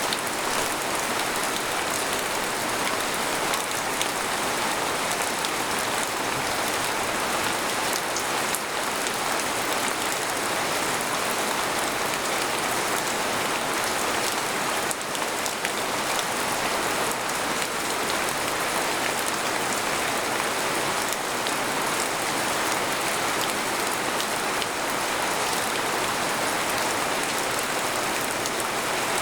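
Steady rain falling on a tent, a dense even patter of drops with no thunder.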